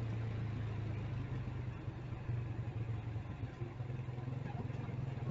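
Motorcycle engine running steadily with a low hum that wavers slightly, over a haze of street noise.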